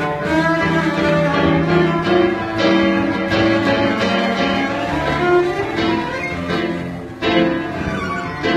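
Cello bowed in an improvised duet with a busker's instrument, a melody of long held notes. The playing dips briefly about seven seconds in before a new note starts strongly.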